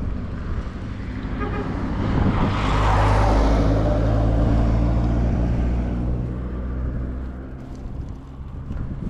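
A motor vehicle passing close by on the road, its engine and tyre noise building about two seconds in, loudest around three to five seconds, then fading away.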